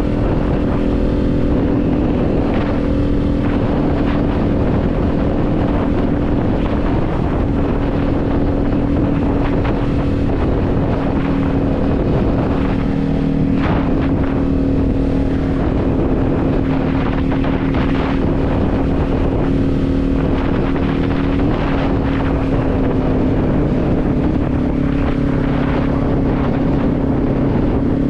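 Kawasaki Z400 parallel-twin engine running while riding at fairly steady revs, with wind buffeting the microphone.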